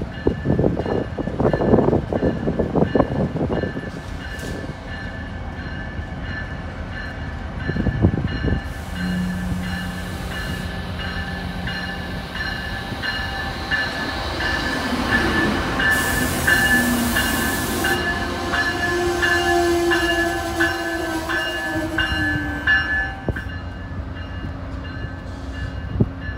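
Amtrak ACS-64 electric locomotive and its Northeast Regional train rolling in along the platform and slowing to a stop: a steady electric whine over wheel-on-rail rumble, with a short burst of hiss about two-thirds through and a motor tone that falls slowly near the end.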